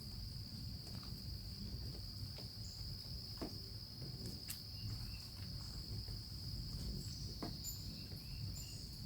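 Crickets trilling in a steady high drone, with scattered short, high chirps from hummingbirds at the feeders.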